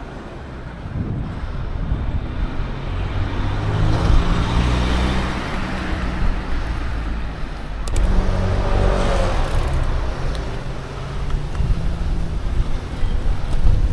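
Road traffic: two motor vehicles pass close by one after the other, each swelling and fading with a low engine hum.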